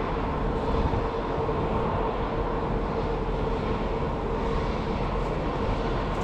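Steady machine drone with a constant hum, unchanging throughout.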